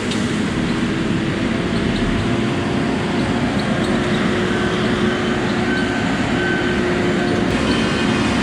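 Heavy logging machinery's diesel engine running steadily under load, with a faint steady whine over it and a few light ticks.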